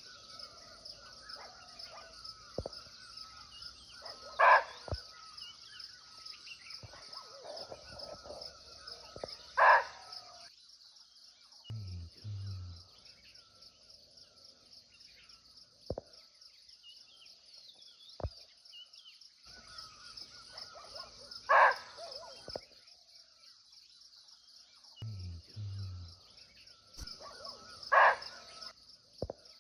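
Barking deer (muntjac) giving four single sharp barks, spaced several seconds apart, over a steady high drone of insects.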